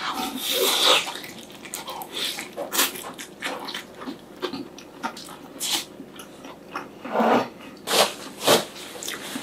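A bite into a whole air-fried block of Spam with a crisp outside and a runny fried egg on top, then chewing: many short mouth clicks, with a few louder mouth sounds near the end.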